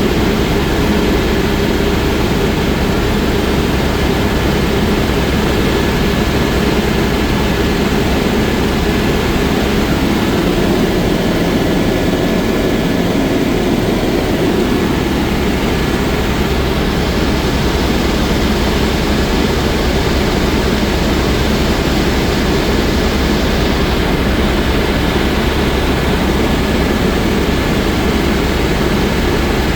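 Helicopter in flight: the turbine engine and rotor make a loud, steady drone that does not change.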